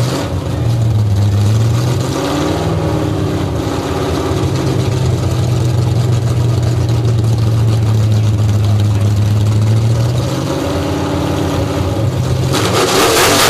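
1968 Ford Mustang's 302 V8 on open headers running at a fast idle with a few throttle blips, then revved hard near the end.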